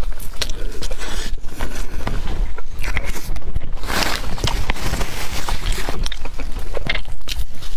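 Close-miked chewing of a crisp fried red-bean pastry: wet mouth sounds with small crunches and clicks, and a louder crackling burst about four seconds in.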